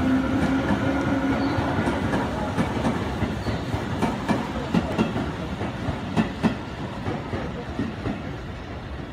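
Electric commuter train running past on the station's far track, its wheels clicking over the rail joints. It grows quieter as it pulls away.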